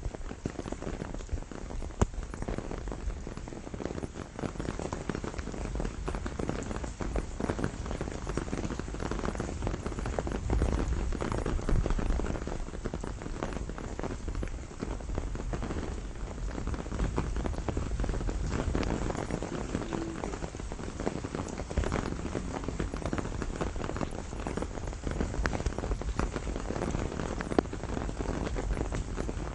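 Steady rain falling, a dense patter of many close drop strikes, with a couple of sharper single clicks: one about two seconds in and one near the end.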